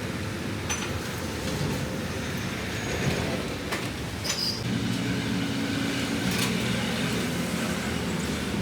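A steady engine or motor hum, with a few light clicks over it.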